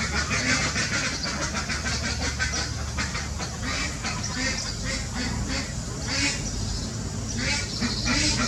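Birds calling in a busy string of short, harsh calls, several a second, over a steady low rumble.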